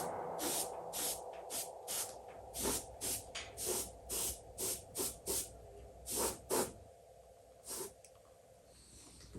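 Airbrush spraying paint in a quick series of short hissing bursts as the trigger is pressed and released, about two or three a second. Near the end there is a pause and then one more burst.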